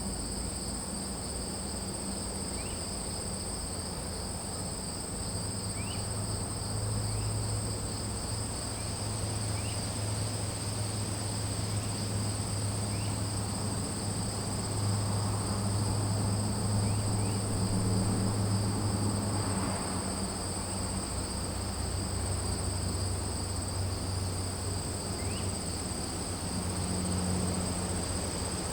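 Chorus of crickets trilling without a break, two steady high-pitched trills layered together. A low drone sits underneath, louder through the middle, and a few faint short rising chirps are scattered through.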